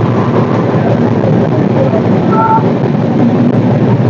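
Passenger train running, heard from on board as a loud, steady rumbling noise, with a brief short tone about halfway through.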